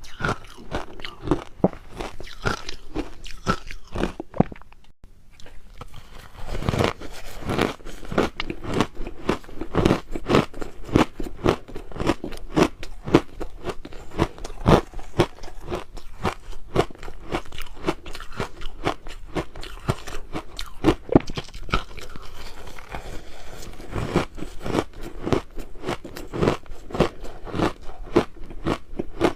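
Crushed ice being bitten and chewed close to the microphone: rapid, dense crunches with a brief pause about five seconds in.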